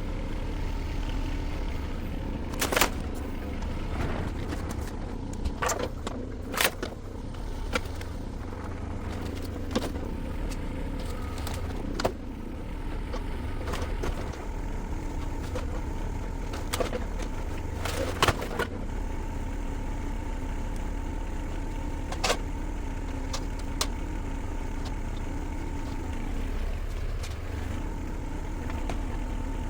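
Shantui STE35SR mini excavator's diesel engine running steadily under work, with about a dozen sharp cracks and knocks of old barn timbers breaking and dropping, the loudest about 3, 7 and 18 seconds in.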